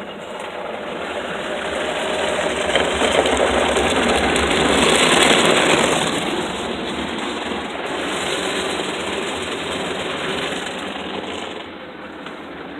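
PDQ ProTouch automatic car wash working over a car: a loud, even rushing that builds to its loudest about halfway through, then eases off.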